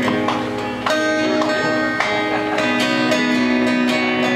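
Guitar played live, strummed chords with held notes ringing on, with fresh strums about a second in and again about two seconds in.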